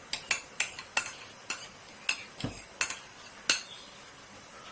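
A spoon knocking and clinking against a bowl about eight times at an uneven pace, each knock short and sharp with a brief high ring.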